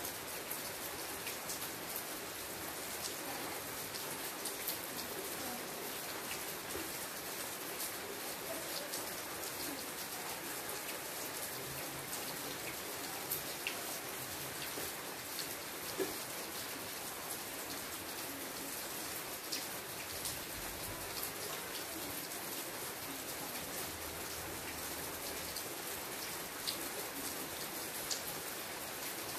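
Steady rain falling: an even hiss made of many separate drop ticks, with a few louder drips now and then.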